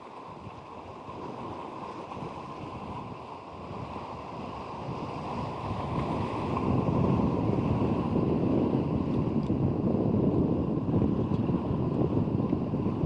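Strong wind buffeting the microphone over sea surf, a dense low rumble that grows louder about halfway through and stays gusty.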